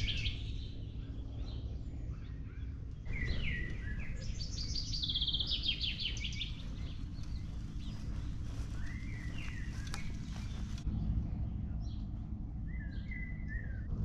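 Small birds singing and chirping, with a rapid trill about five seconds in, over a steady low rumble.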